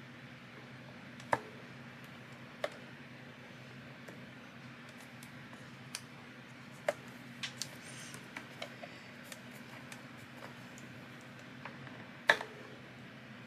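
Scattered light clicks and taps of hand crafting tools and paper being handled on a work surface while paper is marked every quarter inch, two of the taps louder than the rest, over a faint steady hum.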